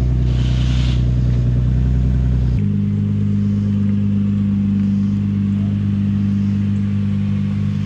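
Car engine idling steadily, its note changing abruptly about two and a half seconds in.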